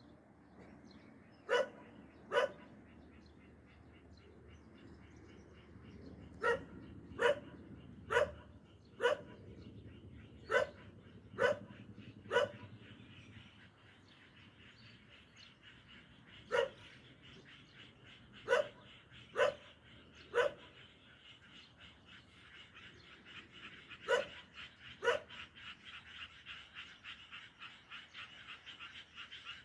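A dog barking in alarm, on guard: about fifteen short, sharp barks, singly or in short runs about a second apart, with pauses of a few seconds between runs. Behind the barks a steady, fast-pulsing chorus keeps going and grows louder near the end.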